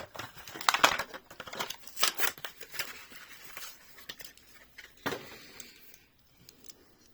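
A Hot Wheels blister card being torn open by hand: the plastic blister crackling and snapping and the cardboard backing ripping, a quick run of sharp crackles over the first few seconds, then another tear about five seconds in.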